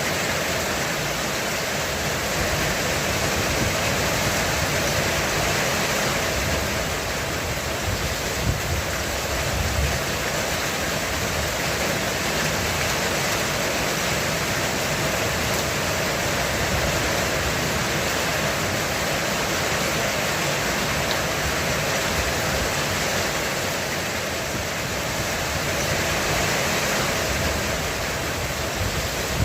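Heavy rain falling steadily on a roof, an even hiss, with low rumbles of distant thunder swelling about eight to ten seconds in.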